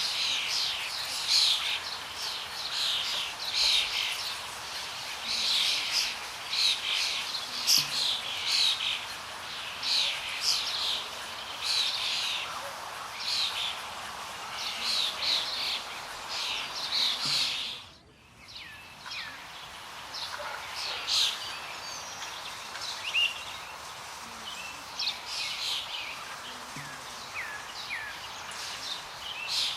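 Many small birds chirping and calling over a steady background hiss. About eighteen seconds in, the sound drops out briefly and comes back quieter, with fewer calls.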